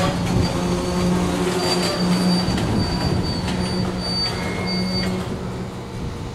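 Freight train of steel coil cars creeping past and coming to a stop, its wheels and brakes giving thin high-pitched squeals over a low steady hum, with a few clanks. The squealing and hum cut off about five seconds in as the cars halt, and the sound drops.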